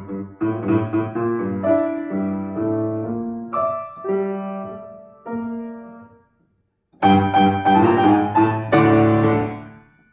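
Acoustic piano playing classical music: a phrase fades away into a short silence, then loud full chords come in about seven seconds in, the last one ringing out and dying away as the piece ends.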